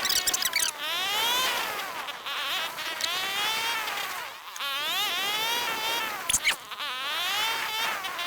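Pit bike engine revving up and easing off again and again as it is ridden, its buzzing pitch rising and falling about four times. A couple of sharp knocks come a little past the middle.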